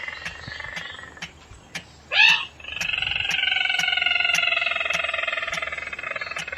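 Recorded rail lure call. A long call sliding slowly down in pitch fades out, then a short loud upswept note comes about two seconds in, followed by another long call that slowly falls in pitch. Faint regular clicks sound about twice a second throughout.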